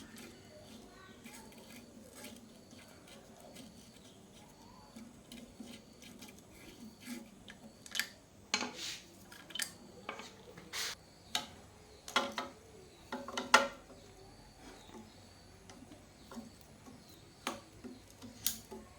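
Scattered clicks, knocks and metallic clinks of tools and pump parts being handled, with a run of louder knocks around the middle.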